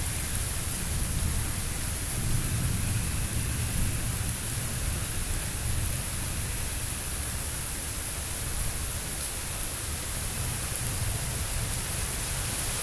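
Steady rain during a thunderstorm, under a low rumble of distant thunder that swells and fades.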